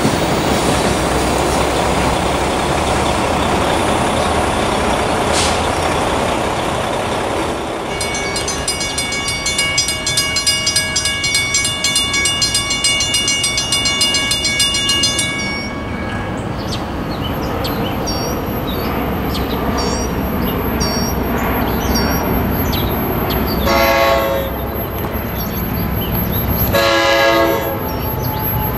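Passenger trains passing close by, a steady rumble of wheels on rail. About eight seconds in, a grade-crossing bell rings rapidly and stops after about seven seconds; later the horn of an NJ Transit GP40PH-2B locomotive sounds twice, about three seconds apart, as its train approaches the crossing.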